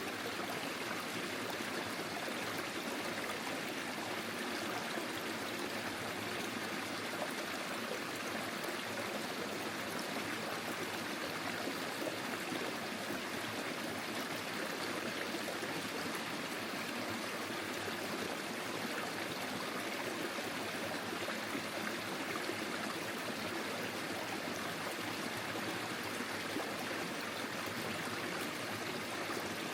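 Forest stream flowing over stones: a steady rush of running water with a light trickle and gurgle.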